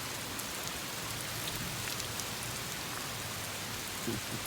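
Heavy rain falling steadily: a dense, even hiss with scattered sharp ticks of drops landing close by.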